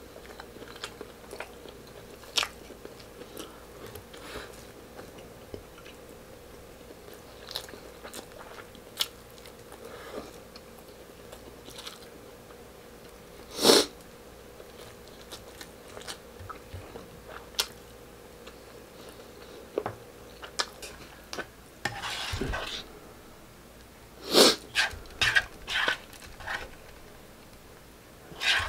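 Close-up eating sounds: chewing and biting on stewed rib meat and rice eaten by hand, with scattered short clicks. Near the end a spoon knocks and scrapes in a nonstick frying pan in a quick run of sharp clicks.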